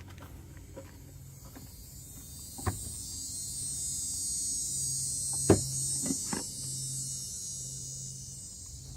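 A high-pitched buzzing hiss that swells over a few seconds and then fades, with a few sharp knocks, the loudest about five and a half seconds in.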